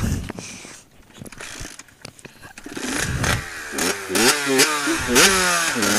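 Pit bike engine revving, faint at first, then from about three seconds in the revs climb and drop back several times in quick succession as the throttle is worked.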